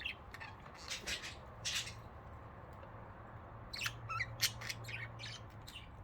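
Budgerigars giving short, scratchy squawks and chirps: a few scattered calls, then a quick run of them about four to five seconds in.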